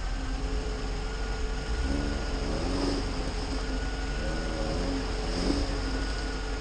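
A car running, with a steady low rumble and hum throughout; faint voices are heard from about two to five seconds in.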